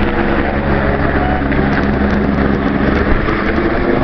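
Police helicopter running close by: a loud, steady hum of rotor and turbine, with wind from the rotor downwash buffeting the microphone.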